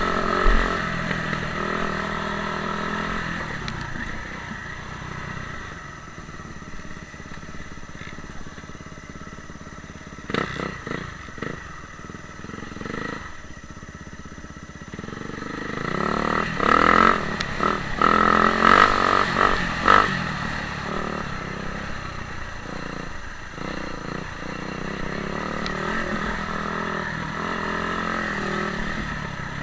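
Motocross motorcycle engines running on a dirt track, rising and falling with the throttle. They are quieter through the first half and loudest, and harshest, about two-thirds of the way through.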